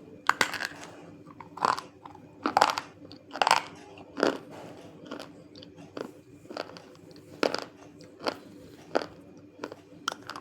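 Close-up biting and chewing of dry, crunchy broken chunks of white and black clay, about a dozen sharp crunches, loudest in the first half.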